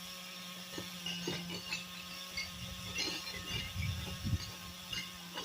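Small nitro RC truck engine running steadily with a constant buzzing tone, with a few scattered knocks and rustles through it.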